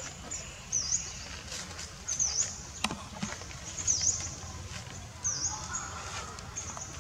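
A small bird calling: high-pitched chirps that each dip and rise quickly, repeated every second or so. There is one sharp click about three seconds in.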